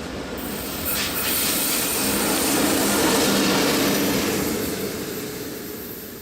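A train passing: its running noise, with a steady hum underneath, swells to a peak about three seconds in, then fades away as it recedes.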